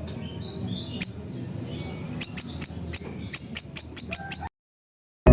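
A siri-siri bird calling: soft chirps, then one sharp high note about a second in, then a rapid run of about ten sharp, high notes, each sweeping quickly downward, at about four or five a second, the fast 'shooting' song (nembak). The calls stop abruptly near the end.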